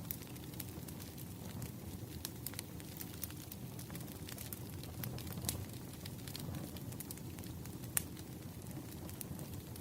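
Firewood burning: a steady low rush of flames with scattered crackles and snaps, and a couple of louder pops, the sharpest about eight seconds in.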